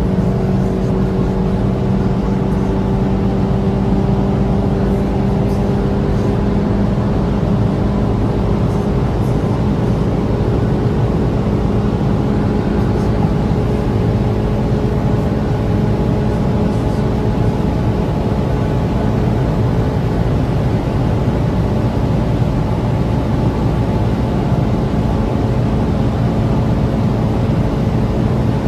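VW Golf 7 R's turbocharged 2.0-litre four-cylinder engine pulling steadily at high speed in a high gear, its pitch climbing very slowly, under heavy wind and road noise.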